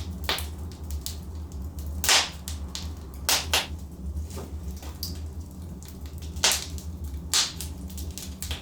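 Logs burning in a fireplace, crackling with irregular sharp pops, the loudest about two, three and a half, six and a half and seven and a half seconds in, over a steady low rumble.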